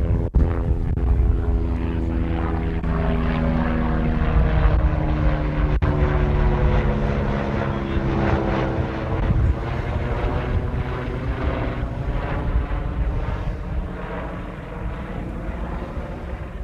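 Propeller aeroplane flying past overhead: a steady engine drone whose pitch slowly falls as it passes, with low wind rumble on the microphone.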